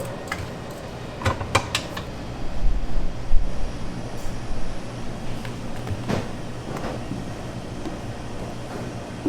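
Steady low hum of kitchen machinery, with a few sharp clinks of metal utensils or bowls about a second in and again near the middle.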